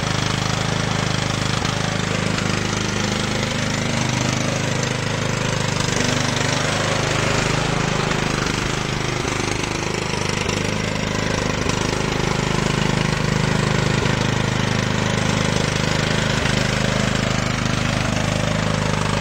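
Yard Machines Millennium lawn tractor's 15.5 hp Tecumseh engine running steadily. It runs badly, which the owners put down to the carburetor, due for a carb kit.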